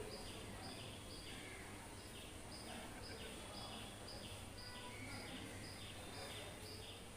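A short high chirp repeated evenly about every two-thirds of a second, over a steady low hum of background noise.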